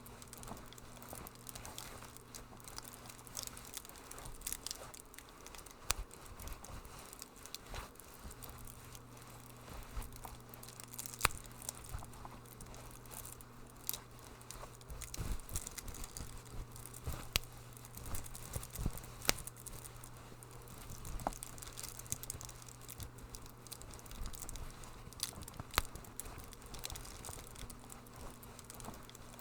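Wood fire crackling in a fireplace, a steady patter of small crackles with scattered sharp pops.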